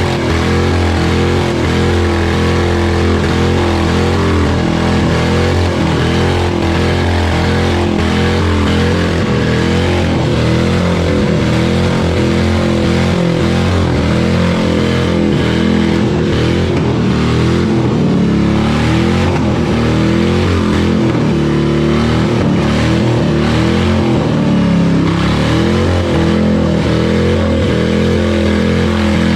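Car engine running continuously, its pitch holding nearly steady.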